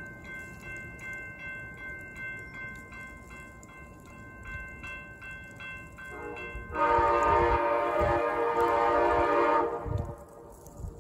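A railroad crossing bell rings steadily, then a locomotive horn sounds one long blast of about three seconds, louder than everything else, starting a little past the middle and cutting off.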